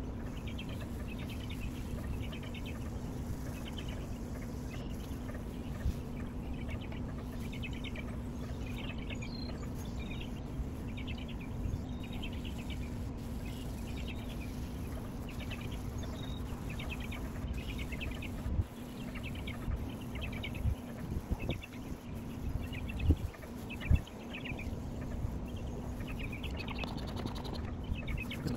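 Birds chirping outdoors in short repeated phrases about once a second, over a steady low hum, with a few sharp knocks in the last third.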